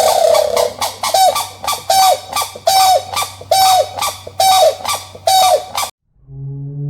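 A goose honking over and over, about one harsh call a second, stopping suddenly about six seconds in, where a quieter low steady hum takes over.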